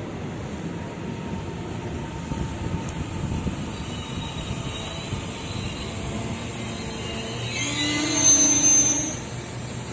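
Train running over the rails with a steady rumble, then a high metallic squeal of steel wheels about eight seconds in that fades after a second or so.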